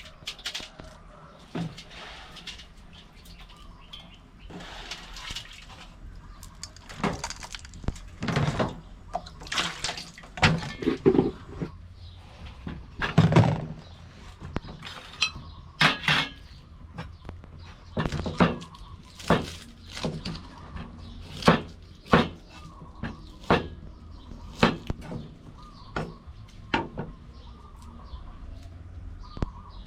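Water splashing and sloshing in irregular bursts as hands wash shredded green papaya in a basin of water.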